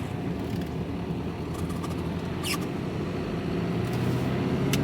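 Vehicle engine running steadily with road noise, heard from inside the cab while driving. The engine note grows a little louder near the end. A short high squeak, falling in pitch, comes about halfway through.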